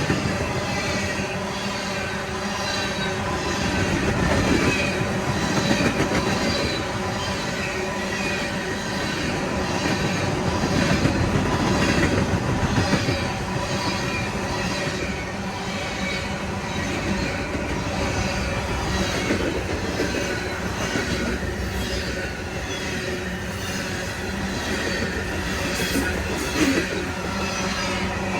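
Freight cars of a CSX manifest train rolling steadily past, wheels clicking in an even rhythm over the rail joints, with some wheel squeal.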